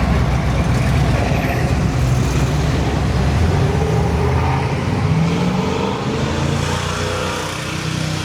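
A car engine and exhaust running loud and close, its pitch shifting upward about halfway through and easing off near the end.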